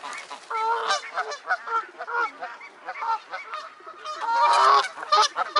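A crowd of waterfowl calling at close range: many short pitched calls overlapping one after another, loudest for about a second near the end.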